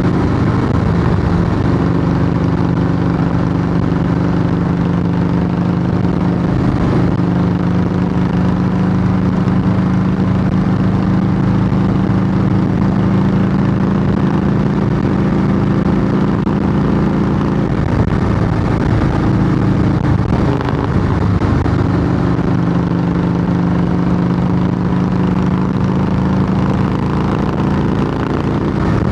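Harley-Davidson Softail Heritage Classic's V-twin running through Samson fishtail true-dual exhaust pipes, a loud, steady exhaust note. The pitch wavers and dips briefly about 18 to 22 seconds in, then settles back.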